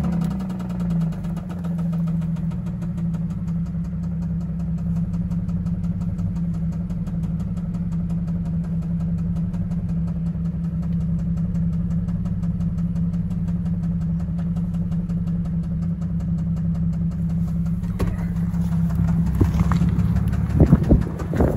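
Cadillac CTS 3.6-litre V6 engine idling steadily, with a fast, even ticking over the hum. The owner suspects a faulty valve lifter on the camshaft. A few louder irregular sounds come near the end.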